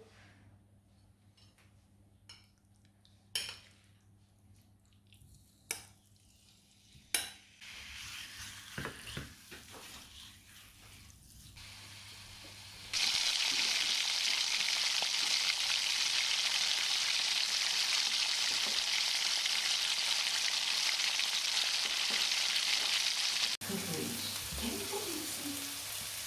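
A few light clicks and taps of kitchen utensils, then about halfway through a sudden loud sizzle as food goes into hot oil, carrying on as steady frying. Near the end it switches abruptly to the scraping and stirring of food frying in the pan.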